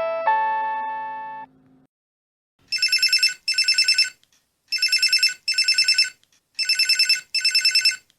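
A melodic ringtone's last held notes fade out, then a telephone rings in a double-ring cadence: three pairs of short, rapidly trilling rings.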